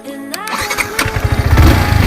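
Yamaha R15M's single-cylinder engine being started: a rapid cranking-and-firing chatter that gets louder and catches into a running engine about a second and a half in. Background music plays over the first half second.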